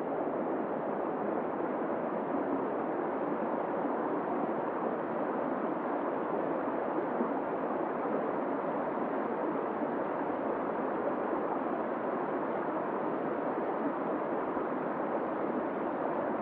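Forest stream flowing, a steady rush and gurgle of water.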